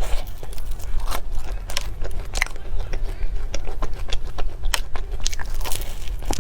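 Close-miked chewing and wet mouth sounds of someone eating chocolate cake, with many quick, irregular clicks and smacks.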